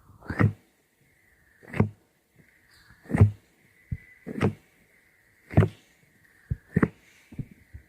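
Repeated close-miked taps or knocks, about one every second and a quarter, each with a heavy low thud, and a few lighter taps near the end. A faint steady high tone sits between them.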